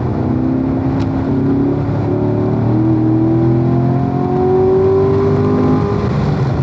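Corvette's engine pulling under throttle on a race track, its pitch rising slowly for several seconds and then dropping near the end.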